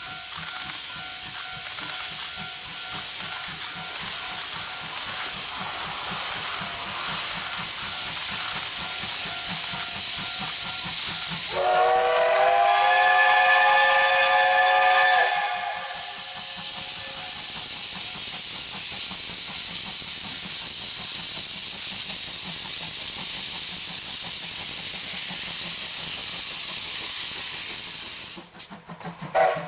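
C12 66 steam locomotive venting steam with a hiss that builds over the first seconds. About a third of the way in, its steam whistle blows once for about four seconds, then the hiss carries on louder and cuts off abruptly near the end.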